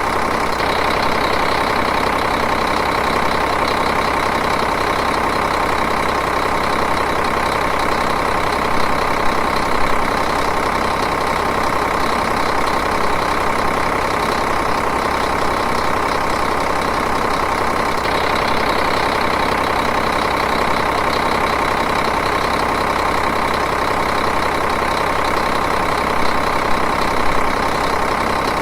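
Diesel engine idling steadily with an even, rhythmic clatter.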